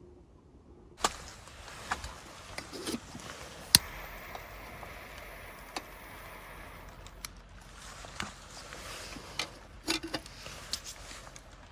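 Irregular clicks, knocks and light clattering of small objects being handled, over a steady hiss.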